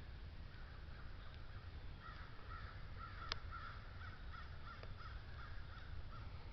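Crows cawing faintly from the trees, a quick run of short caws at about three a second, starting about two seconds in and stopping a little past the middle.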